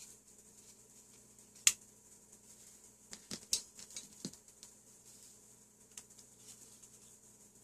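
A sharp click about one and a half seconds in, then a cluster of quieter clicks and taps a couple of seconds later, over a faint steady hum.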